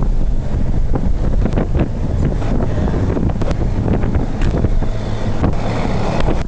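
Inside a car driving on a snowy, slushy highway: steady low engine and road rumble with wind noise on the microphone, and irregular small clicks and knocks.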